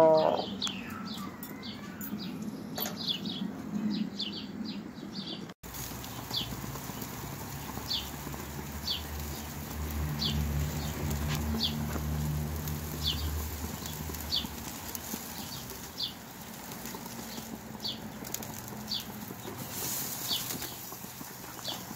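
A small bird chirping in short, high notes. The chirps are quick and close together at first, then come about once a second. A faint low hum comes in for a few seconds midway.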